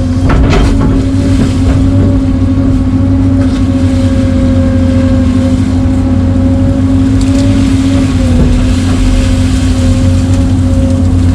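Diesel engine of heavy equipment running steadily at working revs, with a steady whine over a low rumble and a few knocks about half a second in.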